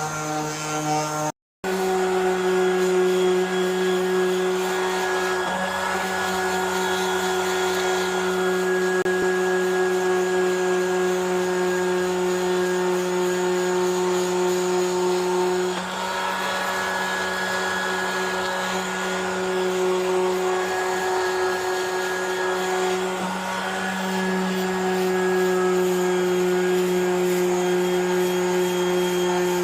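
Electric sander running steadily against metal, a continuous motor hum that dips slightly in pitch now and then under load, with a brief cut-out about a second and a half in.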